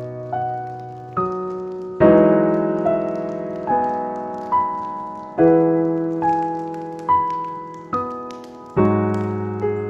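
Slow, gentle solo piano music: sustained chords with a single melody note about once a second, each note left to ring and fade.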